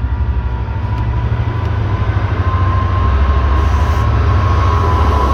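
Diesel passenger train running at the platform: a steady, pulsing low rumble with a steady whine over it, a little louder after a couple of seconds.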